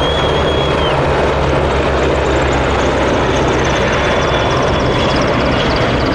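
Turbine-powered military aircraft running loudly and steadily, with a low throb and a high whine that slowly falls in pitch as it passes.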